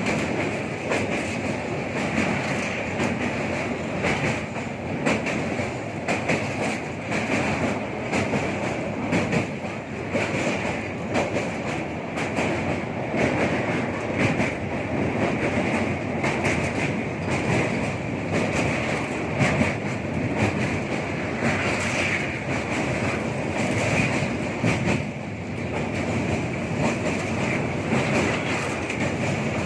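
Express passenger train running at speed, heard from aboard: a steady rumble with wheels clicking over rail joints.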